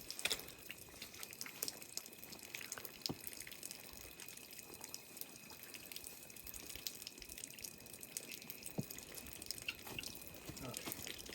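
Water dripping in small, irregular drops over a faint steady hiss.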